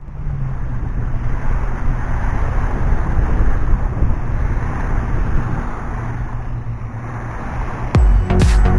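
Wind buffeting the microphone, with a steady rush of outdoor and water noise while the board sails. Electronic music starts abruptly near the end.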